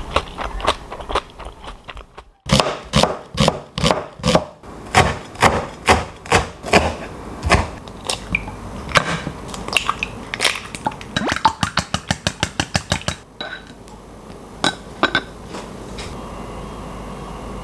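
A knife chopping on a cutting board: a long run of sharp knocks, about two or three a second, that quickens into rapid chops before stopping. A steady hum follows for the last few seconds.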